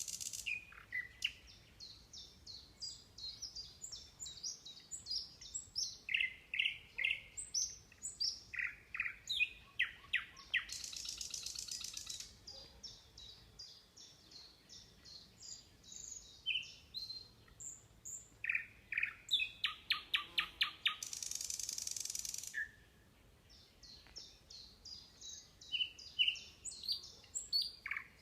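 Songbirds singing: quick series of short high chirps and whistled phrases, with two long, high, rapid trills of about two seconds each, about ten seconds in and again about twenty-one seconds in.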